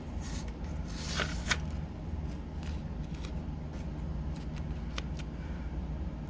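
Painter's tape being handled and pressed onto small wooden craft pieces: two short papery rustles in the first second and a half, the second ending in a sharp click, then a few faint light ticks over a low steady hum.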